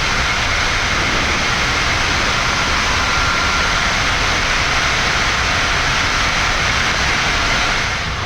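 Steady rushing noise on a Boeing 787-9 flight deck during climb-out after takeoff: airflow and engine noise at climb power, with faint steady tones above it.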